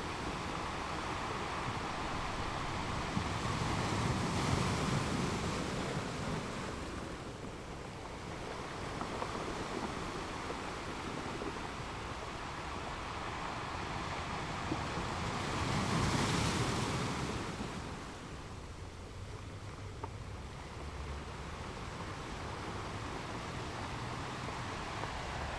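Ocean waves washing onto a shore: a steady rush of surf that swells twice, about four seconds in and again around sixteen seconds, each surge rising and then falling away.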